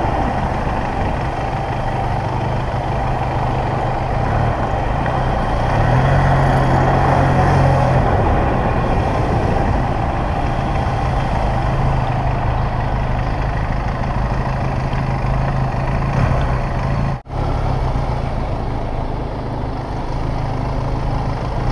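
Benelli 502C's 500 cc parallel-twin engine running steadily at low speed in slow city traffic, heard from on board. The sound drops out for a moment about three quarters of the way through.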